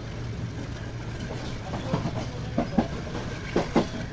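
Passenger train running, with a steady low rumble. From about a second and a half in, the wheels clack over rail joints in pairs of knocks, heard from inside the coach.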